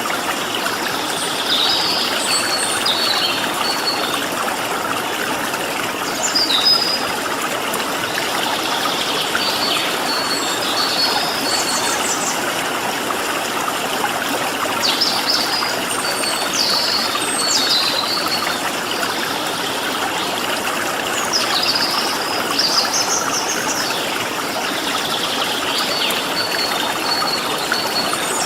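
Steady rushing of a flowing stream, with small songbirds giving short chirps and quick stuttering trills over it every few seconds.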